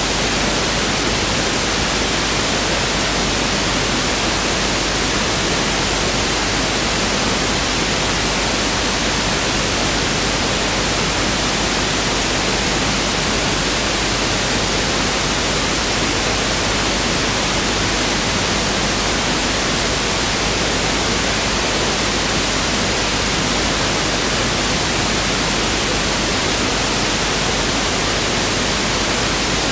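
Pink noise (1/f) test signal: a steady, even hiss spread across all frequencies, unchanging throughout.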